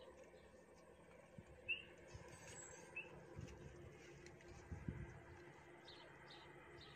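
Quiet outdoor ambience with a few faint, short bird chirps, the clearest under two seconds in, and a handful of soft low thumps.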